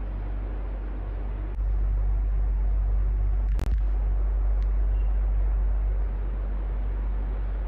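Electric fan running steadily: a low motor hum under the rush of air. It gets louder about a second and a half in and eases back a little near the end, with a single sharp click about halfway through.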